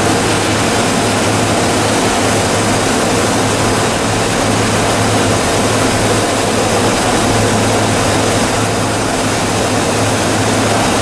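Two-stage plastic recycling machine running: a loud, steady machine noise with a constant low hum underneath.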